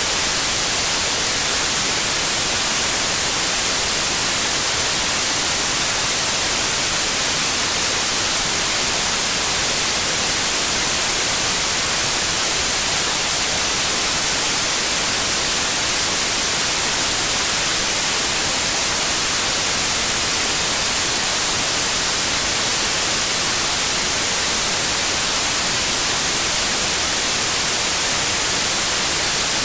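Steady, continuous white noise: an even hiss, brightest in the treble, with no changes in level or pitch.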